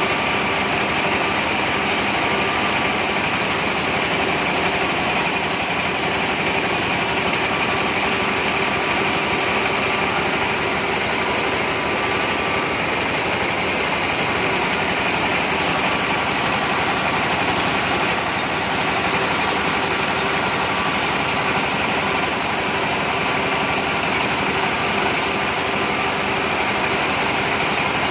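Cassava starch and pulp separator machine running steadily, its motor giving a constant hum with a few steady tones over a broad mechanical hiss.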